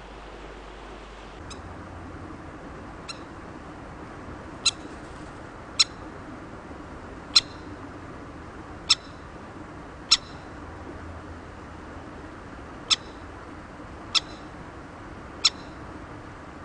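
Crested kingfisher giving short, sharp single call notes, about ten of them, spaced a second or so apart, over the steady hiss of a river.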